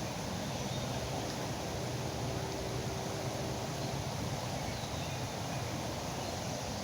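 Steady rush of a foaming river running, an even noise with no breaks. A faint steady hum sounds for a few seconds near the start.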